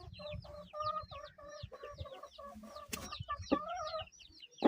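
Aseel chickens clucking in a quick run of short, repeated calls, with high, falling cheeps over them and a sharp click about three seconds in.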